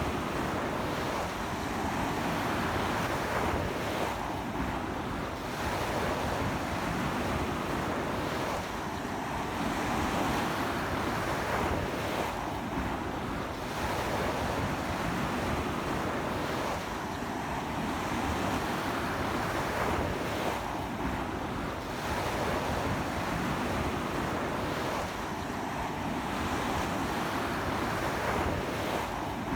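Sea surf washing onto a beach in strong wind: a continuous wash of breaking waves that swells and eases about every four seconds, with wind buffeting the microphone.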